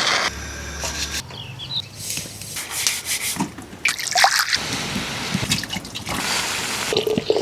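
Water dripping and trickling, in irregular splashes and patters.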